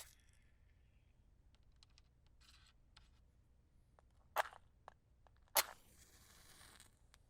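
Wooden match struck against a matchbox twice, a little over a second apart, the second strike followed by about a second of fizzing as the match head flares alight. Light ticks of the match and box being handled come before.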